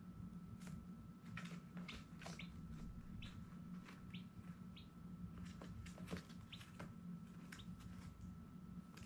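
Baby chicks peeping: short, high chirps coming irregularly, several close together at times, over a low steady hum.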